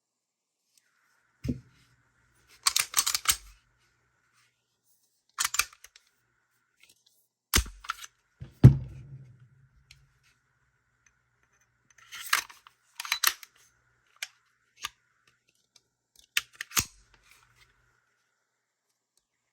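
A series of sharp clicks, taps and knocks from a Baofeng handheld radio being handled, its buttons pressed and knob turned, with a few heavier thumps as it is set down or gripped.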